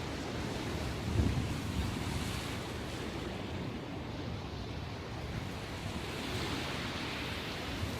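Ocean surf, after a typhoon, breaking and washing steadily, with a surge of wash in the second half. Wind buffets the microphone in low rumbles about a second in.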